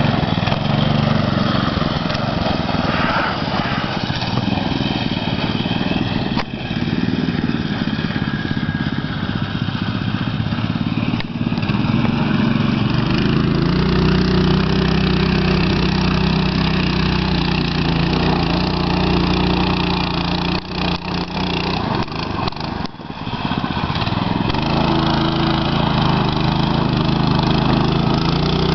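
Baja Warrior minibike's small single-cylinder four-stroke engine running hard under load in deep sand, its note rising and falling with the throttle. Its level dips briefly about three-quarters of the way through.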